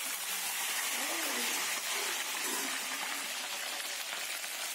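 Jackfruit strips deep-frying in hot oil in a wok: a steady, dense sizzle.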